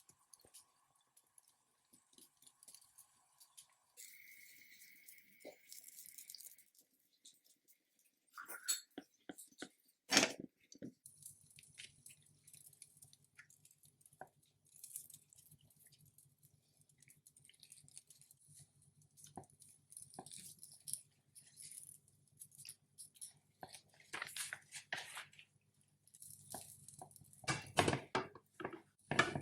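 Kitchen handling sounds: scattered light clicks and knocks, with a steady low hum setting in about a third of the way through.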